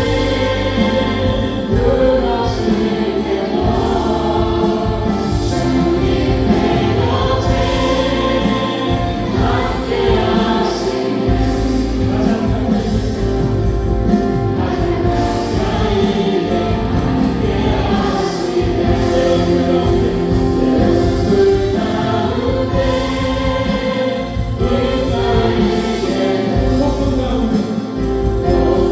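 Live contemporary worship music: a praise band with keyboards, synthesizer, electric guitar, bass and drums, with several voices singing together.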